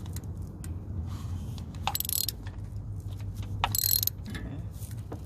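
Ratchet wrench loosening a spark plug, its pawl clicking in two short bursts about two and four seconds in, over a steady low hum.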